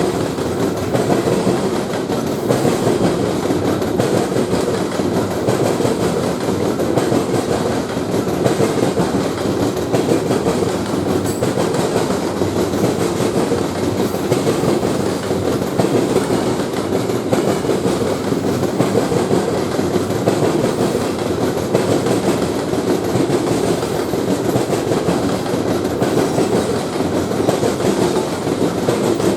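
Train cars rolling past on the rails: a steady, unbroken rumble of wheels on track.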